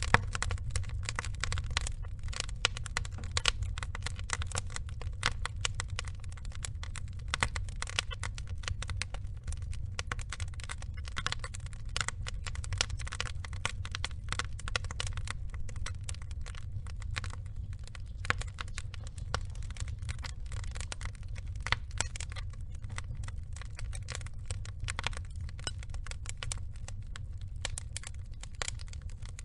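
Log fire burning, with dense, irregular crackles and pops over a low steady rumble.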